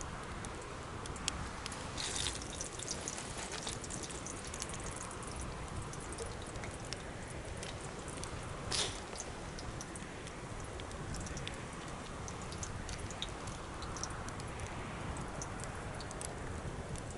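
Wood campfire crackling: scattered sharp pops and ticks over a steady low rush, with a brief hissing flare about two seconds in and a louder pop about halfway through.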